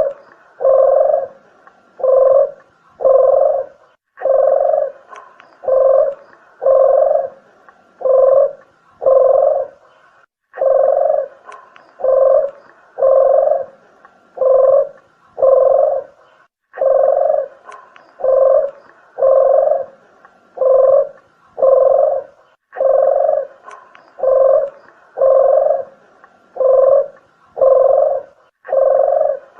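Dove lure call (deruk / puter geni): low coos about half a second long, repeated in even phrases of about five, with a short pause about every six seconds.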